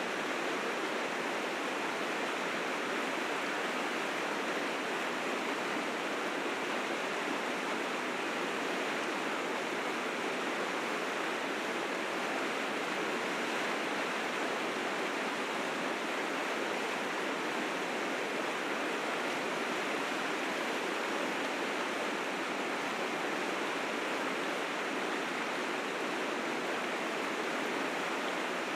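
River rapids in spring snowmelt flood, water rushing steadily over rocks in a continuous, even roar.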